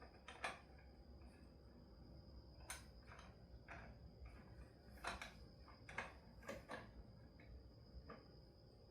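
Scattered light clicks and taps of metal hand tools as a puller is fitted and adjusted, about eight in all, the loudest about five and six seconds in, over a faint steady high-pitched whine.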